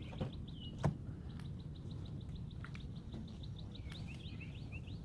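A bird chirping over and over, short upward-sliding notes several a second, over a steady low background rumble, with one sharp click just under a second in.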